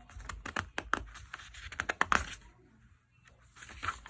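Paper rustling and a quick run of small scratchy clicks, the sound of a picture-book page being handled and turned, with a few more rustles near the end.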